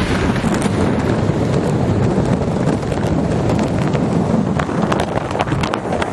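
Motorboat running at speed across open water, its engine rumble mixed with heavy wind buffeting on the microphone. A few short knocks come in the second half.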